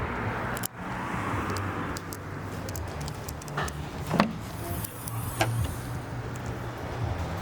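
Audi S3 idling with a steady low hum, with a few sharp clicks about a second in and again between about three and a half and five and a half seconds in.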